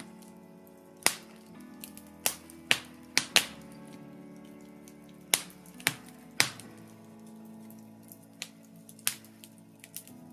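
Birch logs burning in a fireplace, crackling with sharp, irregular pops, a few of them loud, over a soft layer of sustained background music.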